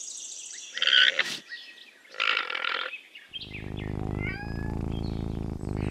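Alpaca calling: two short, rough calls, then a low, buzzy, continuous grunting sound from about halfway through.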